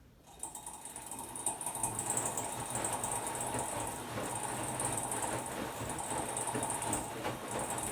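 Hotpoint-Ariston AQD972F washer-dryer running: a mechanical whirring with a steady hum and whine and fast irregular rattling clicks, starting abruptly about half a second in.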